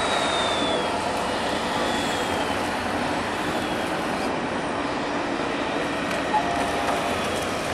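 Steady mixed running noise of radio-controlled model trucks, with a faint whine that glides down in pitch near the start.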